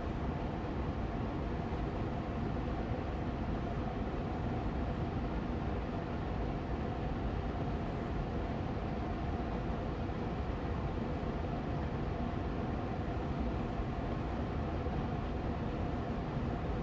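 Austin Air Allergy Machine air purifier fan running steadily on medium speed: an even hum and rush of air, with a faint steady tone in the mid range.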